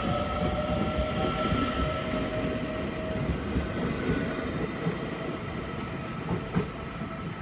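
Puyuma Express TEMU2000 tilting electric train running along the platform as it pulls out, with a steady rumble of wheels on rail. A steady high whine fades out about three seconds in, and there is a single sharp click near the end.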